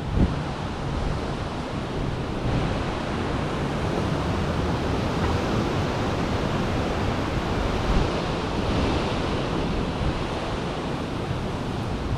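Strong gusty wind, in gusts of about 40 mph, rushing through a valley oak, with wind buffeting the microphone in a low rumble. There are brief louder bumps just after the start and about eight seconds in.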